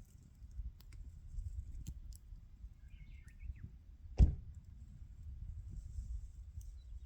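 Wood fire burning with a low rumble and a few faint crackles, and one sharp loud pop about four seconds in.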